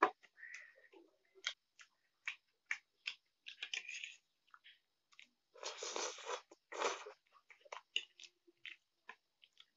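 Close-miked eating sounds: chewing and mouth noises from a mouthful of Maggi noodles, with short clicks of a fork against the plate. A sharp knock at the very start, and two longer noisy bursts a little past the middle.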